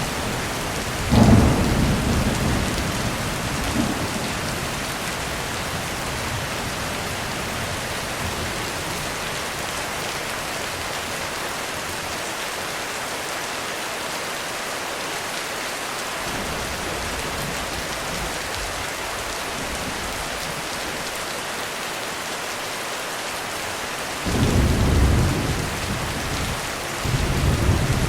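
Heavy rain falling steadily, with a sudden thunderclap about a second in that rumbles away over a few seconds, and two more rolls of thunder near the end.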